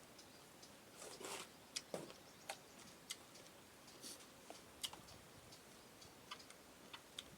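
Faint, irregular clicks and smacks of someone eating, spaced unevenly, with a couple of slightly longer soft rustles about a second in and near silence between.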